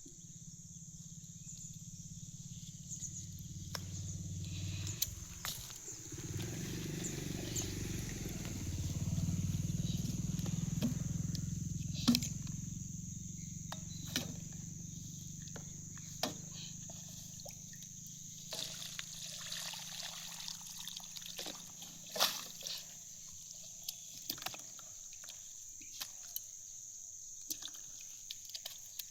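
Insects shrilling in one steady high tone beside a canal. A low rumble and a rush of water swell up in the middle. Scattered sharp clicks and knocks sound throughout.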